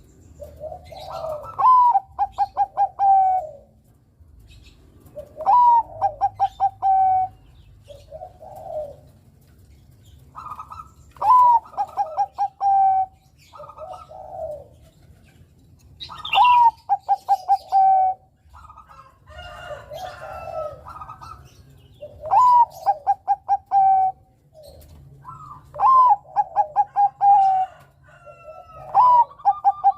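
Zebra dove of the perkutut bangkok (Thai-bred) singing line, singing its repeated song: each phrase is a short rising note, a quick run of clicking pulses and a held coo. The phrases come about every five seconds, with softer short coos between them.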